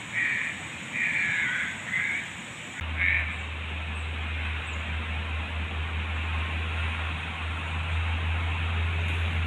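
An animal calling four times in short calls over the first three seconds, over a steady background hiss. A steady low rumble starts suddenly about three seconds in and continues.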